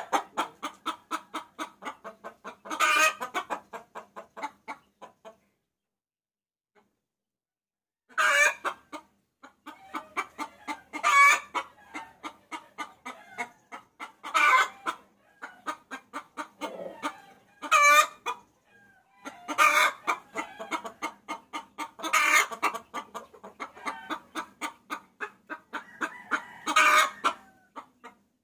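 Hen cackling: fast runs of clucks, several a second, broken every few seconds by a louder drawn-out call, the hen's call to a rooster used as a lure. The sound stops for about three seconds near the start, then resumes.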